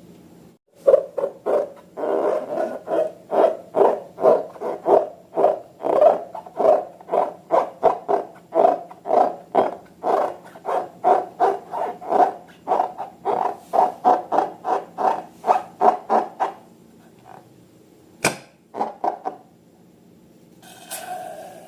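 Slime being squeezed and kneaded by hand, a steady run of wet squishes about two to three a second, stopping near the end with a few last squishes and a sharp click.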